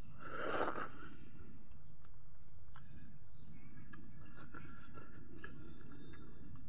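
A bird repeating a short, high, downward-sliding call about every two seconds over a steady low background noise. About half a second in there is a louder, brief noisy sound as a handful of rice goes into the mouth, a mouth smack while eating.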